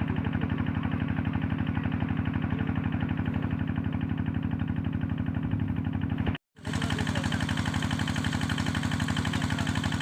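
A small engine running steadily with a fast, even putter. The sound drops out completely for a moment about six and a half seconds in, then resumes unchanged.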